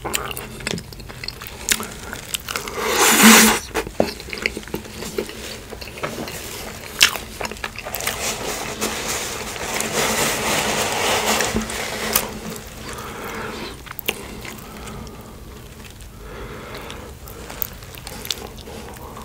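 Close-miked eating: bites and chewing of animal-style In-N-Out food, with crunching, crackling and wet mouth sounds. A loud, brief noise comes about three seconds in.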